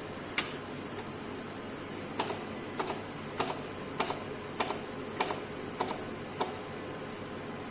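Sharp clicks from a Roche electrolyte analyzer: one about half a second in, then an even series of eight about 0.6 s apart, many as a quick double click.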